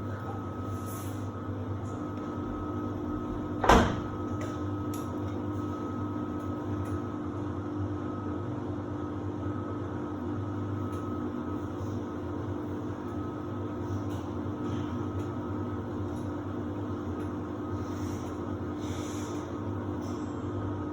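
Samsung WD70T4047CE washer-dryer running in its drying phase: a steady hum with several constant tones, and one sharp knock about four seconds in.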